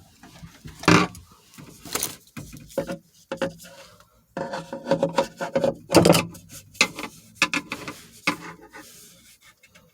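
Screwdriver scraping, rubbing and clicking against a Moen 1/2 HP garbage disposal being reset after it stopped working, in irregular strokes with short pauses.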